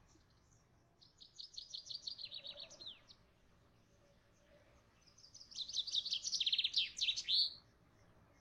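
A small songbird singing two phrases, one about a second in and another after about five seconds, each a quick run of high repeated notes ending in downward sweeps.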